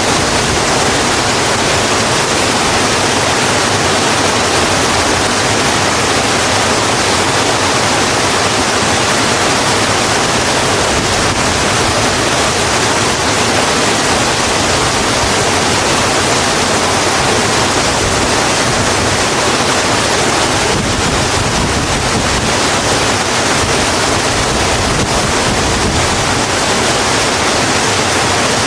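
Steady rain falling on a road, a dense even hiss with no single drops or drips standing out.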